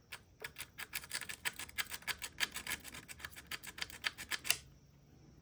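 Diamond grit file rasping in quick short strokes, several a second, between the contacts of a 1969 Johnson 9.5 hp outboard's ignition breaker points, cleaning them because the motor had no spark. The strokes stop abruptly about four and a half seconds in.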